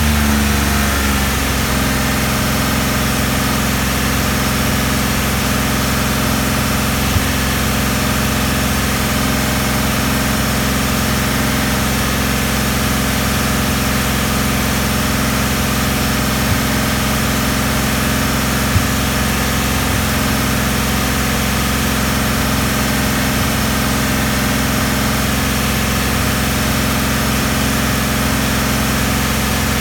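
1988 Porsche 959's twin-turbocharged flat-six idling steadily during its warm-up to operating temperature. Its speed settles slightly in the first second and then holds even, with a few faint clicks.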